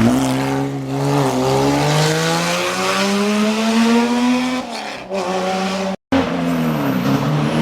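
Historic rally car's engine accelerating hard, its pitch climbing steadily for about four seconds before lifting off. The sound cuts out for a moment about six seconds in, then engine noise returns.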